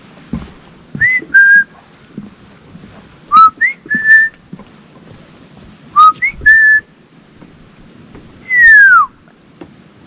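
A person whistling close by: three short two-note phrases, each a quick upward note then a held note, followed by one long falling whistle near the end.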